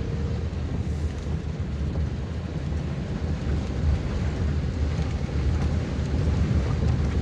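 Steady low rumble of a car driving on the road, with a faint hiss of rain.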